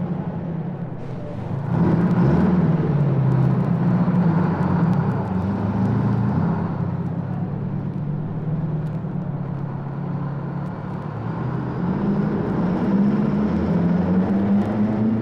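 A motor vehicle engine running steadily, its pitch rising and falling, louder from about two seconds in and rising again near the end.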